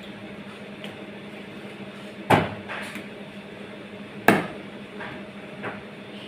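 Two sharp knocks about two seconds apart, each with a short ring, then a fainter knock, over a steady low hum.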